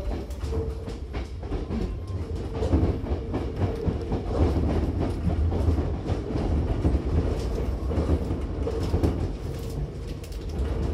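Hankyu 8000-series electric train running, heard from inside the carriage: a steady low rumble with wheels clicking over rail joints.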